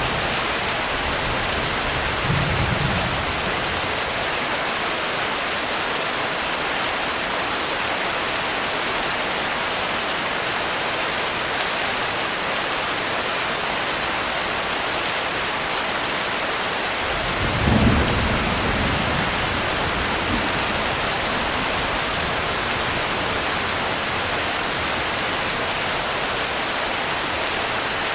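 Steady heavy rain with thunder: a short low rumble about two seconds in and a louder, longer rumble about two-thirds of the way through.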